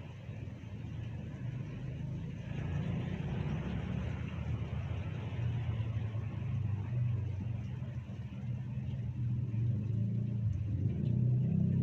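A motor vehicle running on a flooded road, getting steadily louder as it approaches, with its engine note rising near the end. The steady hiss of heavy rain runs underneath.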